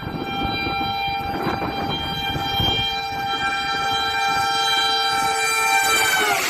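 Locomotive air horn sounding one long steady blast, a chord of several tones over the rumble of the train. Near the end the chord sags in pitch as the horn cuts off.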